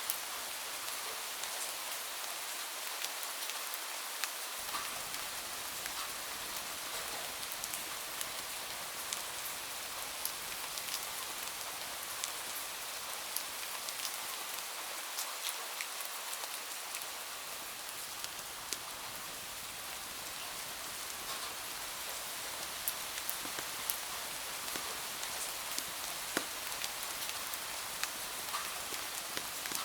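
Steady rain falling, an even hiss scattered with many sharp little ticks and pops.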